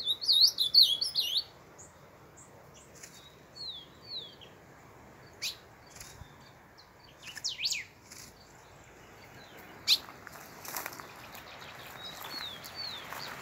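Small songbird chirping: a loud, rapid burst of high chirps in the first second and a half, then scattered single down-slurred calls and sharp chirps. Brush rustles more and more toward the end.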